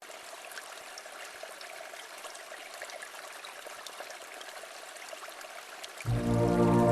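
A small river flowing and trickling gently, with fine splashy ticks. About six seconds in, slow ambient music with sustained low chords comes in much louder over the water.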